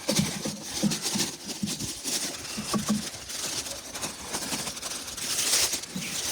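Footsteps crunching on packed snow at a steady walking pace, about two to three steps a second.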